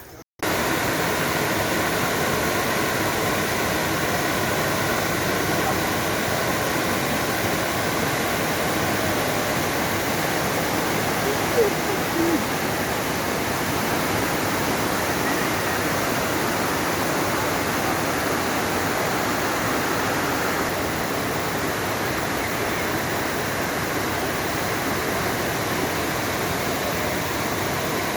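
Waterfall rushing: a steady, even wash of falling water that cuts in just after the start, with two brief faint tones about twelve seconds in.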